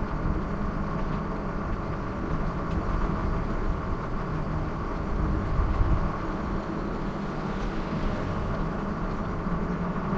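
Steady riding noise from a moving bicycle: wind buffeting the microphone with a fluttering low rumble, over a continuous hum of the ride.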